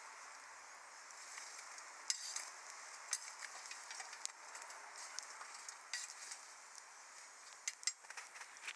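Wood fire burning in a Snow Peak fire stand: a steady hiss with scattered sharp crackles and pops, one loud pop about two seconds in and a cluster of pops near the end.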